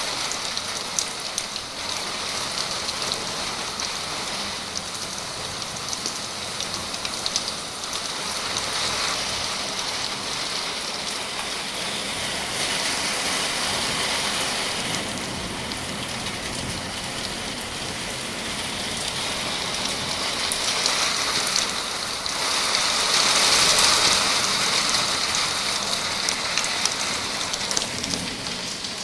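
Rain pouring down steadily, an even wash of drops with scattered individual ticks, swelling louder for a few seconds about four fifths of the way through.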